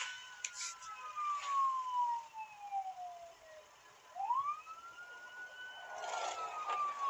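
A wailing siren: a single tone falls slowly, sweeps quickly back up about four seconds in, then begins falling again.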